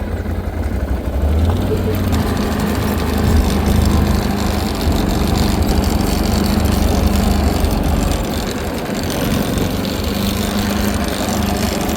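A vehicle engine running steadily with a low drone, over a broad rushing noise.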